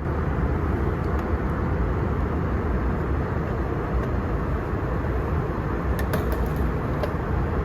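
Steady in-flight cabin noise of an Airbus A321 at cruise: a constant rush of airflow and engine drone from its IAE engines, with a few faint clicks about six seconds in.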